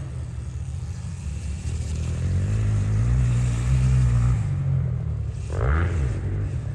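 Electric mini dirt bike riding by: a low motor and drivetrain hum that swells a few seconds in, with a short rising-and-falling whine near the end.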